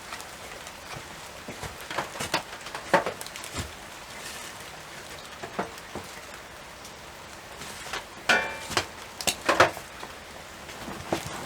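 Footsteps crunching through dry fallen leaves: irregular crackles over a steady faint hiss, with clusters of louder crunches a couple of seconds in and again about eight to ten seconds in.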